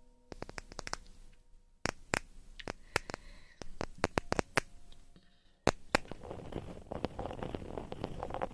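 Close-miked ASMR trigger sounds: a run of irregular sharp clicks and crackles, joined by a stretch of scratchy rustling near the end.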